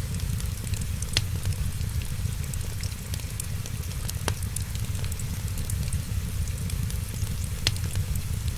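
Wood fire crackling, with sharp pops about a second in, around four seconds in and near the end, over a steady low rumble.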